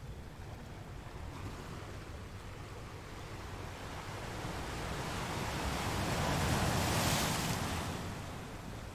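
Sea waves: one wave swells, breaks with a hiss about seven seconds in, and then ebbs away.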